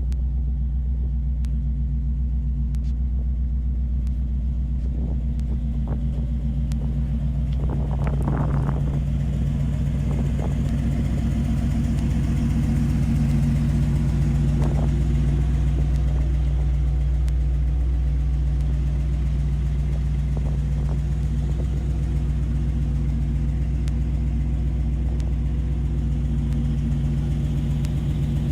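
Chevrolet Impala SS's 327 cubic-inch V8 idling steadily, with a deep, even rumble.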